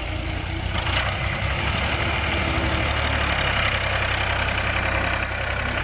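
A vehicle engine idling steadily with a low, even pulsing rumble.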